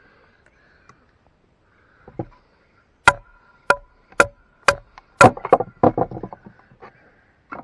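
Batoning: a wooden striking stick hitting the spine of a self-made knife driven through a log, in sharp blows about two a second, each with a short metallic ring from the blade. A flurry of quicker, smaller knocks and cracks follows after the fifth blow.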